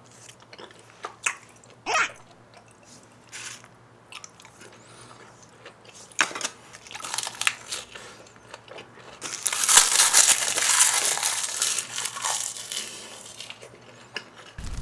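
Close-up mouth sounds of a person chewing raw yellowtail sashimi with chili-vinegar sauce: scattered wet smacks and clicks. About nine seconds in comes a louder, hissing rush of breath lasting a few seconds, a reaction to the burn of too much wasabi.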